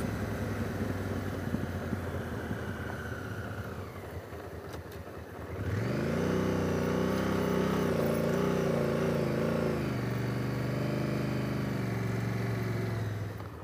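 2017 Honda Africa Twin's parallel-twin engine running while riding: its note sags and fades about four to five seconds in, picks up sharply just before six seconds and holds a higher steady note, then eases back to a lower steady note for the last few seconds.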